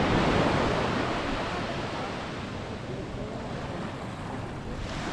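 Ocean surf washing onto a sandy beach, a wave's wash loudest at first, easing over the first couple of seconds and building again near the end, with wind buffeting the microphone.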